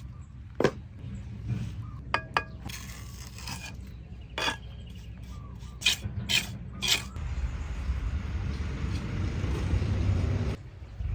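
Bricklaying with a steel trowel and mortar: sharp metallic clinks and taps, and scraping of the trowel against brick and mortar. A steady rushing noise runs for about three seconds near the end.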